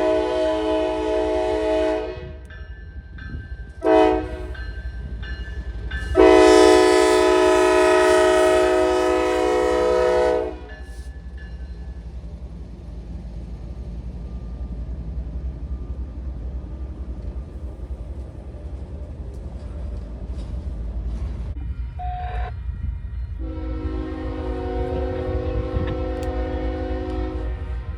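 Locomotive multi-chime air horn sounding a series of blasts: one ends about 2 seconds in, a short toot near 4 seconds, a long blast from about 6 to 10 seconds, a short toot near 22 seconds and a long blast from about 23 seconds. A steady low rumble of the train runs beneath.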